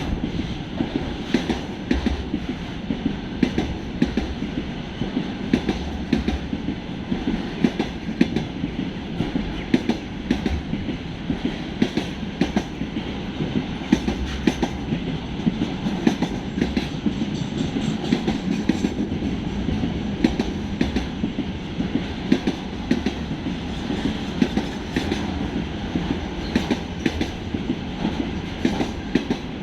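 Train wagons rolling steadily past on the track, the wheels beating a continuous clickety-clack over the rail joints under a constant rumble.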